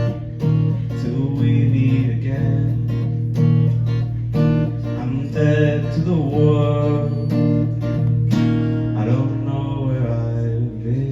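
Acoustic guitar strumming the closing chords of the song's outro, with no vocal line, the strumming trailing off near the end.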